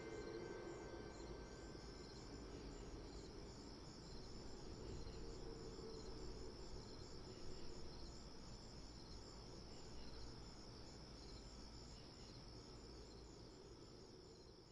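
Faint crickets chirping in an even, repeating rhythm over a steady high insect trill.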